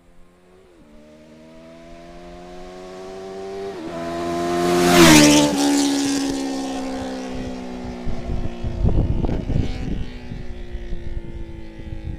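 Benelli motorcycle passing at speed: its engine note grows louder as it approaches, drops in pitch as it goes by about five seconds in, then fades away. Low thumps follow after it has passed.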